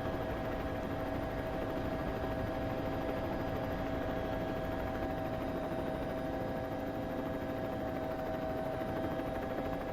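A steady mechanical drone: an even hiss with a constant hum, which does not rise, fall or pass by.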